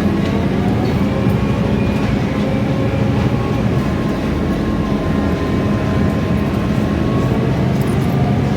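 Interior sound of a Scania K320iA CNG city bus on the move: a steady engine drone whose pitch drifts a little, under road and body noise.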